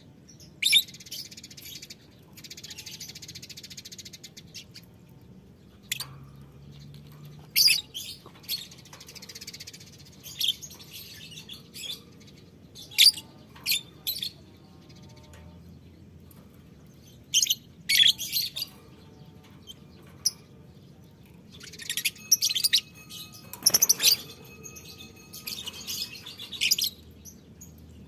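Lovebirds chirping and screeching: shrill, high-pitched calls in short bursts, coming in clusters with brief gaps between.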